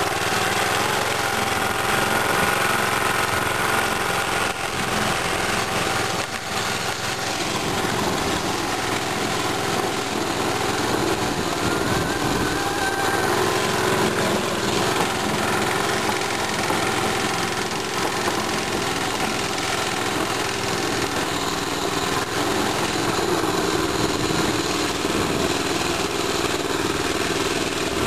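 Mini bike's small engine running steadily, with a brief rise in engine speed about twelve seconds in.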